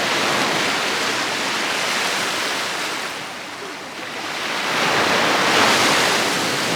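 Sea waves breaking and washing onto the beach in two surges. The first eases off about halfway, and the second swells to a louder peak a little before the end.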